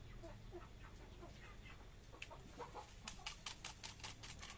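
Faint clucking of chickens, then a quick run of sharp clicks about three seconds in, some six a second.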